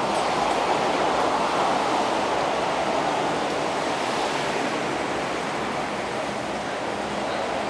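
Steady rushing rumble of a passing through train's wheels on the track as it moves away, slowly fading.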